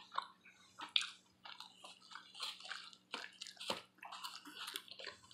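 Someone chewing buffalo wings with sauce: faint, scattered wet smacks and small clicks.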